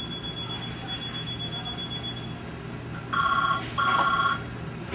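Desk telephone ringing electronically: two short buzzy rings about three seconds in, each made of several high tones together. Before them a thin, steady high-pitched tone runs for about two seconds and stops.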